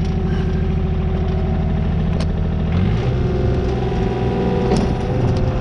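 Takeuchi TB025 mini-excavator's diesel engine running steadily, its note shifting about three seconds in. It sounds a lot better now that a clogged fuel filter, which had starved the engine of power, has been replaced and the air purged from the fuel system.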